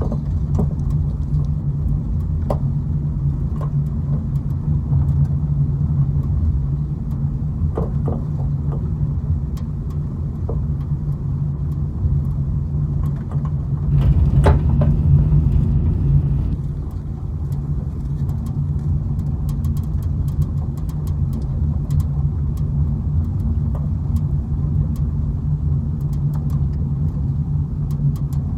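Car driving, heard from inside the cabin: a steady low drone of engine and road noise with occasional small clicks and rattles. It swells louder for a couple of seconds about halfway through.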